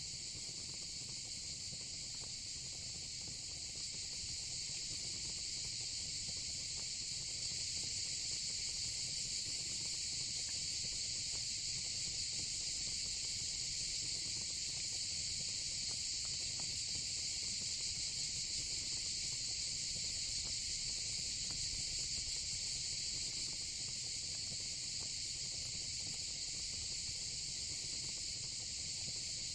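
A steady, unbroken insect chorus, crickets chirping together in a dense high-pitched din, over a faint low rumble. It swells slightly a few seconds in.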